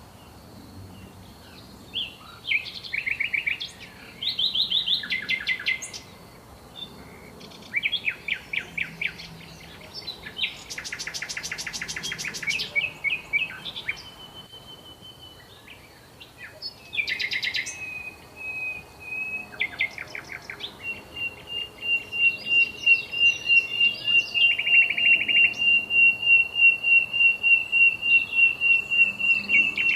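Songbirds singing: short phrases of rapid trilled notes, one after another, with a long steady high trill held through the last third.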